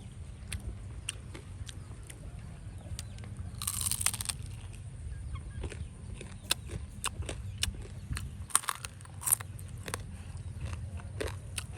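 Close-up eating sounds: chewing and biting on cooked chicken feet, with many small wet clicks and two louder crunching bursts, about four and nine seconds in.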